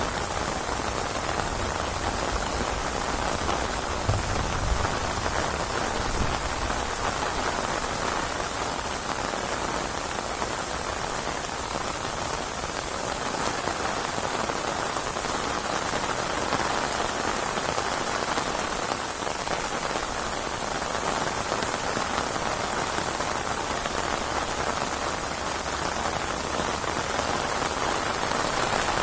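Steady heavy rain falling and pattering on surfaces, a dense even hiss with no letting up.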